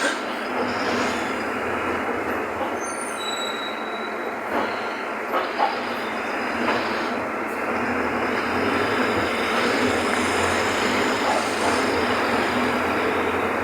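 Mercedes-Benz OF-1519 BlueTec 5 bus with Caio Apache Vip V body, driving: steady engine and road noise with a few short knocks and rattles. It gets a little louder about eight seconds in.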